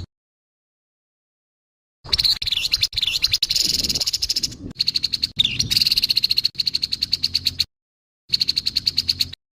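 Grey-headed babbler giving its harsh call: fast, buzzy, high-pitched rattles in three bouts, the first about two seconds in, each starting and stopping abruptly.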